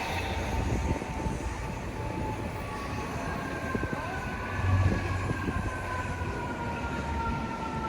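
City street traffic noise with a steady low rumble. About three seconds in, a faint, high siren tone joins and slowly falls in pitch.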